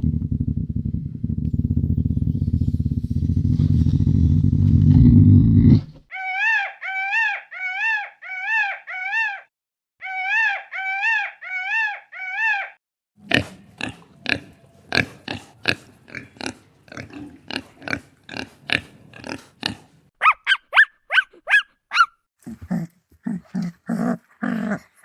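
A sequence of different animal calls. First a low, rough growling grunt for about six seconds. Then two runs of repeated arched calls at about two a second, then a rapid run of clicking calls, a few quick falling chirps, and short low pulsed calls near the end.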